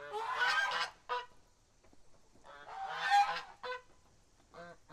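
Domestic geese honking: two longer calls about two and a half seconds apart, each followed by a short honk, with two more short honks near the end.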